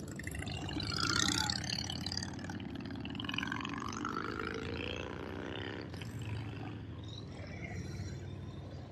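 Motorcycle engines running as bikes in a parade ride past, with one passing loudest about a second in.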